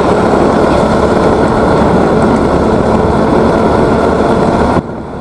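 Motorcycle riding noise: wind rushing over the camera microphone with the engine and road noise underneath, steady and loud. It cuts off suddenly near the end.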